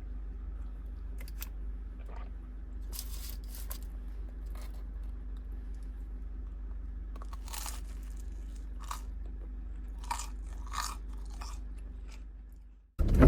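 Scattered crisp crunching sounds, about ten of them, over a steady low hum.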